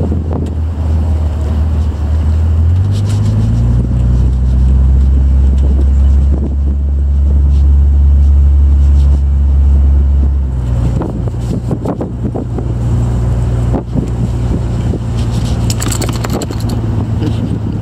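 1962 Chevy II convertible's engine running as the car drives along with the top down, a steady low note that drops about three seconds in and rises again about ten seconds in. Wind buffets the microphone in the open car, most around the end.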